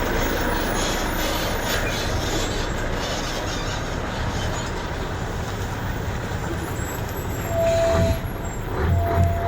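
Heavy trucks rumbling past in a steady stream. Near the end a horn sounds twice in short, steady blasts.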